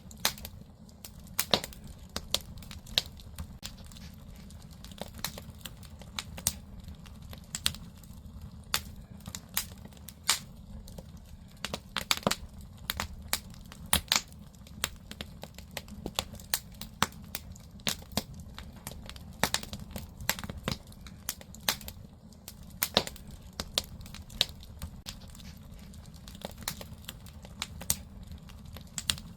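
Firewood burning in a Korean agungi, a traditional wood-fired firebox under an ondol floor. It crackles with frequent irregular sharp pops over a steady low rumble of the fire.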